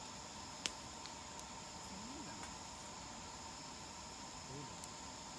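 Crickets chirring steadily over a wood campfire, which gives a sharp pop about half a second in and a few fainter crackles after it. Faint voices can be heard in the background.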